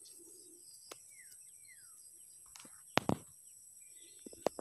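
Two short, falling bird whistles about a second in, with a few sharp clicks and knocks of handling; the loudest knock comes about three seconds in.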